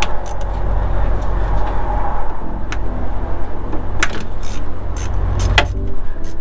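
Steady low rumble of an idling engine, with several sharp metallic clicks and clinks from hand tools at the work.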